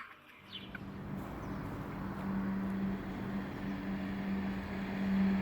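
Outdoor ambience: a steady low hum over a low rumble, with a few faint bird chirps about half a second to a second in.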